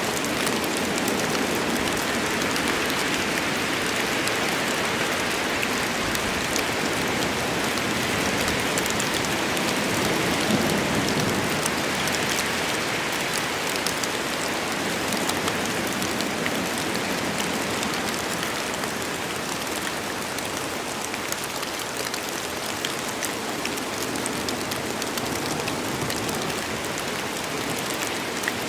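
Steady heavy rain falling on a forest, a continuous wash of pattering drops.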